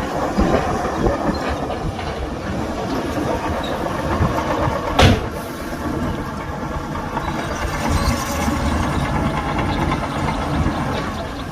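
Heavy diesel earthmoving machinery running steadily, with a rattling, clanking quality like steel crawler tracks. There is one loud metallic bang about five seconds in.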